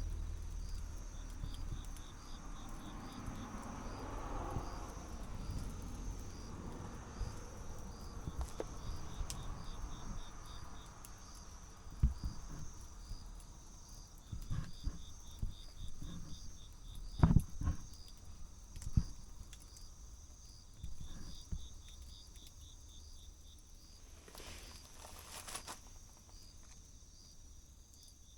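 Insects chirping in steady, evenly spaced pulses, with a light patter and scattered knocks underneath, the loudest of them twice near the middle.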